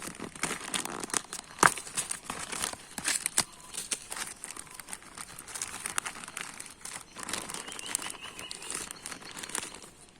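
Packaging crinkling and rustling by hand, with irregular sharp crackles, as a toy airplane is unwrapped from its pack.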